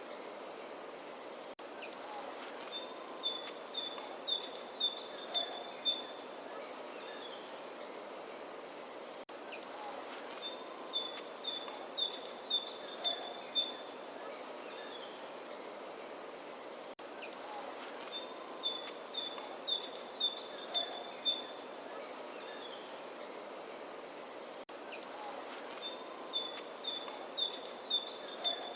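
Songbird singing: each phrase starts with a quick falling run of high notes and goes into a string of short repeated notes alternating between two pitches. The same phrase comes four times, about every eight seconds, over a faint steady background hiss.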